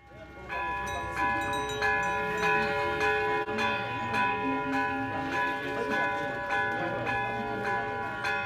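Metal bells struck over and over in a steady rhythm, about one and a half strikes a second, each new strike adding to tones that keep ringing and overlapping.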